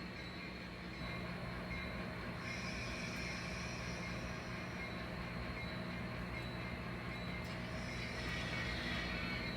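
N scale model train running on the layout, a steady low hum with a higher hiss that joins about two and a half seconds in.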